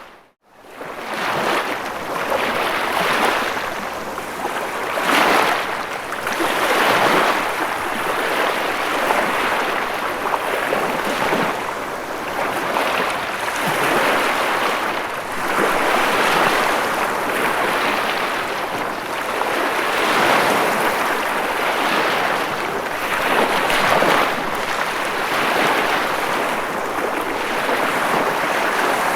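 Ocean surf washing ashore: a continuous rush of breaking waves that swells and eases every couple of seconds. It cuts out for a moment at the very start.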